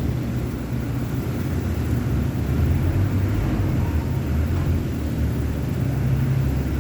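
Steady low mechanical rumble, like a running engine, with no distinct knocks or strikes.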